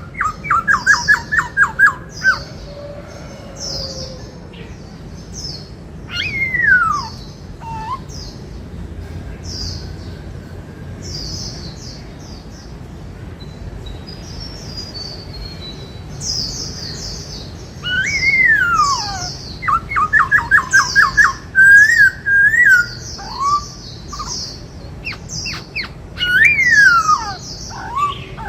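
Black-throated laughingthrush singing: loud whistles that slide down in pitch and fast rattling runs of repeated notes, mixed with many short high chirps. It comes in bursts at the start and again through the second half, with a quieter spell of only high chirps in the middle.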